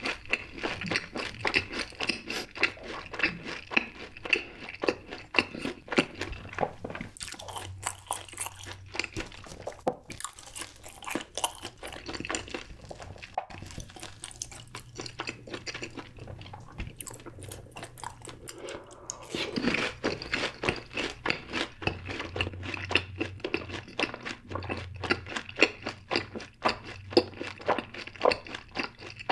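Close-miked eating of fried cheese balls: crunchy biting of the fried coating and chewing, in many quick irregular crunches.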